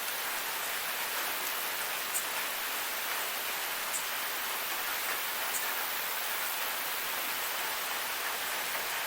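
Forest waterfall: a steady, even rush of falling water, with a few faint high splashes now and then.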